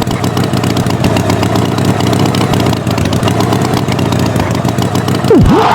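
Engine running steadily with a fast pulsing note. Near the end comes a quick swoop that drops sharply in pitch and rises back up.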